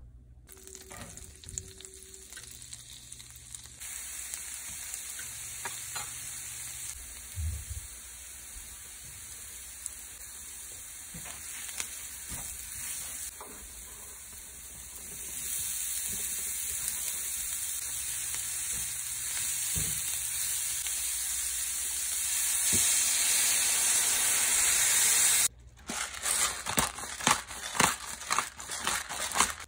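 Butter, then diced onion and chicken, sizzling in a cast-iron skillet, the sizzle growing louder about halfway through. Near the end it gives way to a run of sharp clicks as salt and pepper are added.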